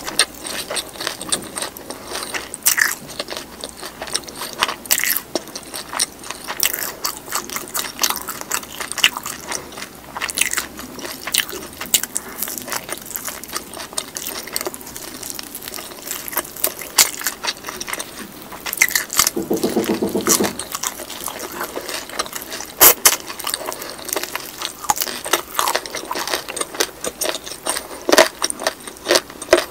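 Close-miked chewing of soy-sauce fried chicken drumstick meat, full of sharp, wet mouth clicks and smacks. A short hum comes about two-thirds of the way through.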